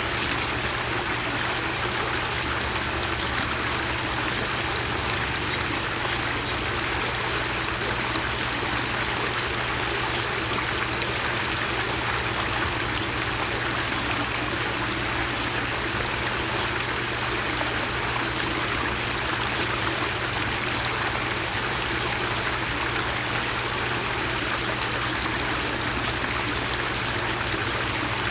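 A steady, even rushing noise like running water, unbroken throughout, with no distinct bird calls standing out.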